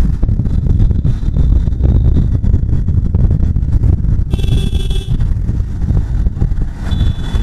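Riding noise on a Bajaj Pulsar 150 motorcycle: heavy wind buffeting on the microphone over the engine and road noise. A vehicle horn sounds briefly about four seconds in, and another horn starts near the end.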